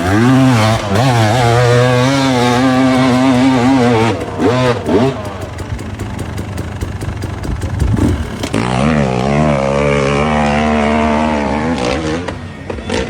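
Motorcycle engine revving hard in two long stretches, its pitch wavering up and down, with a rougher, quieter spell in between.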